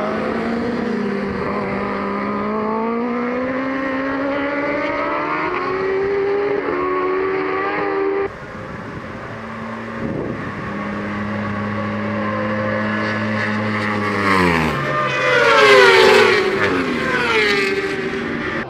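Racing superbike engines at high revs, the pitch climbing as they accelerate through the gears. After a cut, a steady engine note, then a superbike passes close and loud about 15 seconds in, its pitch dropping sharply as it goes by.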